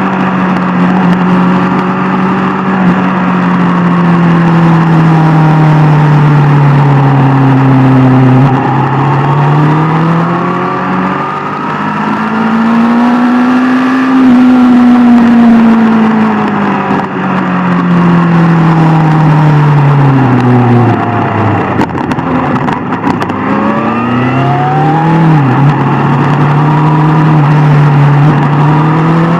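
Sport motorcycle's inline-four engine running under way. Its pitch slowly sinks and rises again and again as the revs fall and climb, and near the end it dips sharply and picks up again.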